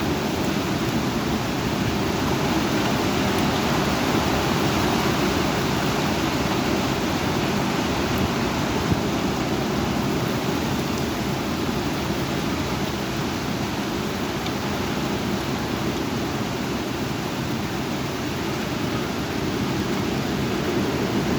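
Heavy rain pouring during a severe thunderstorm, a steady dense hiss that holds without a break.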